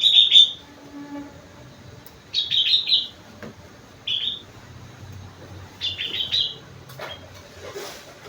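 Sooty-headed bulbul (kutilang), a songbird trained with rengganis and cucak wilis song phrases, singing. It gives four short bursts of quick, high chirping notes a second or two apart.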